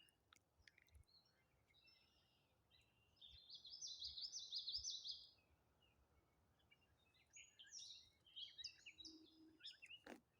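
Songbirds singing faintly: a fast run of high repeated notes about three seconds in, lasting about two seconds, and another burst of varied high notes from about seven seconds. A single sharp click near the end.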